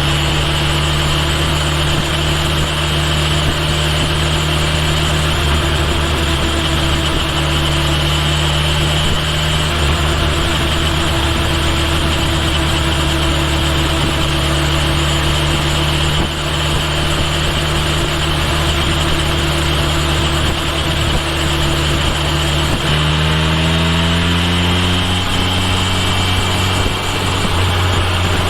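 Kawasaki Ninja H2 SX's supercharged inline-four engine running at a steady pitch while riding, then rising in pitch about 23 seconds in as the bike accelerates.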